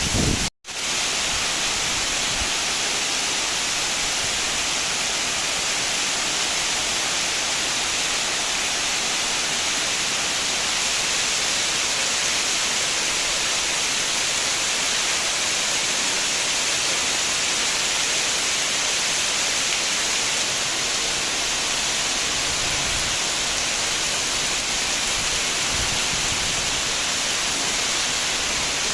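Heavy rain pouring down steadily, a dense, even hiss. The sound cuts out for an instant about half a second in.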